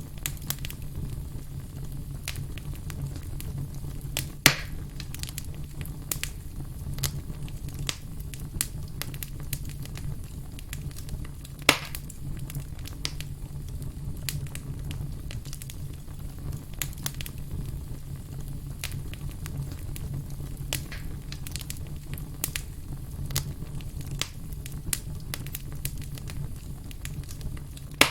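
Campfire crackling: a steady low rumble scattered with many small snaps, and a few much louder single pops, one about four seconds in and one about twelve seconds in.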